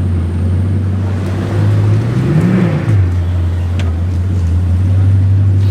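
Bugatti quad-turbocharged 8.0-litre W16 engine running steadily at a low idle, with one short blip of the throttle about two and a half seconds in that lifts the pitch briefly before it settles back.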